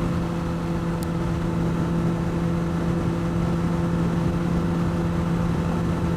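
2009 Honda CBR600RR inline-four engine running at a steady cruising speed, a constant even hum with no revving, under steady wind and road rush.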